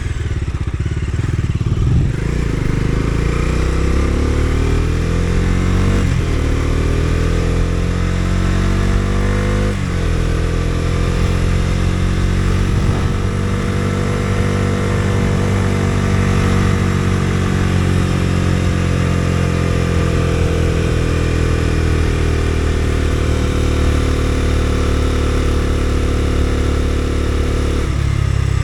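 Bajaj Dominar 250's single-cylinder engine under way, accelerating through the gears with upshifts about 2, 6 and 10 seconds in. It then holds a cruise with the revs rising and falling gently, and they drop off near the end.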